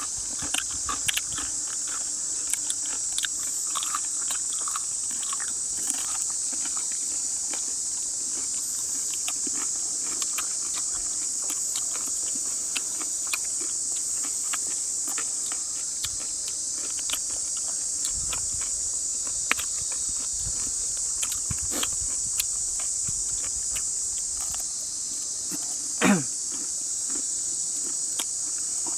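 Steady high-pitched drone of jungle insects, with scattered small clicks and crackles throughout and one sharp sound falling steeply in pitch near the end.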